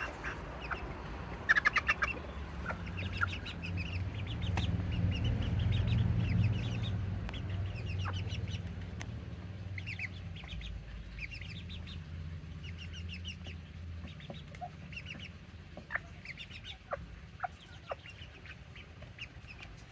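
Serama bantam chickens clucking and chirping in short runs, with a quick burst of clucks about a second and a half in and a few sharp clicks near the end. A low rumble underneath is loudest in the first half.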